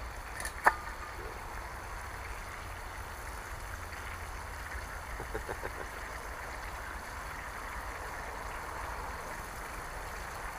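Food sizzling steadily in a frying pan over a campfire, with one sharp crack just under a second in and a few faint clicks around five seconds in.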